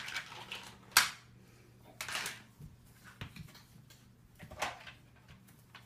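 Plastic Trackmaster toy train track pieces clicking and clacking as they are handled and fitted together: a few separate sharp clicks about a second apart, the sharpest about a second in.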